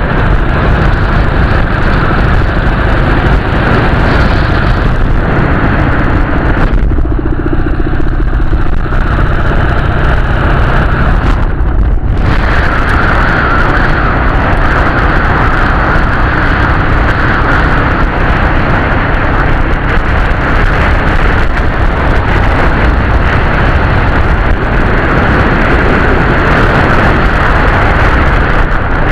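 Dnepr flat-twin motorcycle running under way, a loud continuous engine and road noise. The sound eases off about seven seconds in and picks back up about twelve seconds in.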